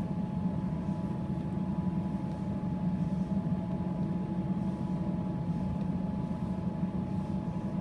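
Steady running noise inside a suburban electric train carriage: an even low rumble, with a faint steady high hum above it.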